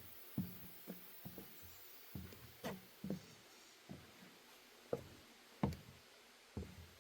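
Footsteps on a wooden boardwalk: dull thumps of shoes on the deck planks, irregular but about one to two a second.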